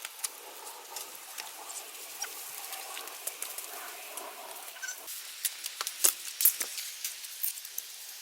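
Irregular rustling with many sharp clicks and taps, growing busier about five seconds in.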